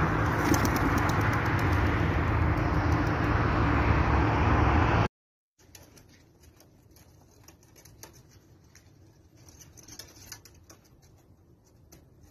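A loud, steady rushing noise for about five seconds that cuts off suddenly. Then come faint, scattered light clicks and pattering.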